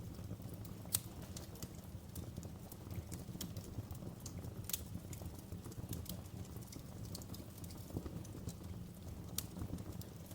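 Wood fire in a fireplace crackling: irregular sharp pops and snaps over a steady low rumble of burning, with a louder pop about a second in and another near the middle.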